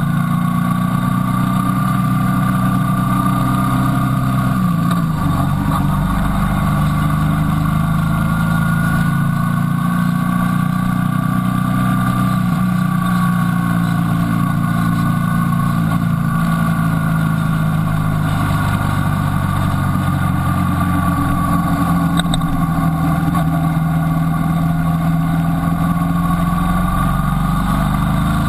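Motorcycle engine running at road speed, heard on board the bike. Its pitch holds steady for long stretches, drops about five seconds in, and rises again near the end as the rider changes speed.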